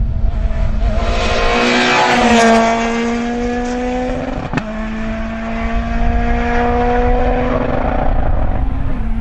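Rally car engine pulling hard, its pitch climbing through the revs, with a single sharp crack about four and a half seconds in. It then climbs steadily again and drops off near the end.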